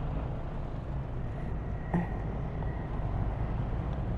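Motorcycle engine running steadily, with a faint click about two seconds in.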